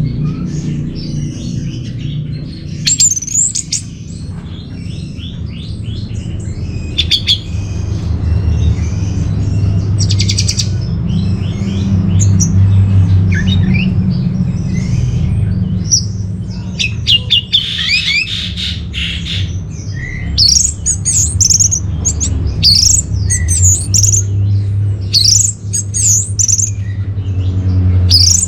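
Orange-headed thrush singing a long, varied song of quick sweeping whistles and rapid trills, busiest in the second half, over a steady low hum.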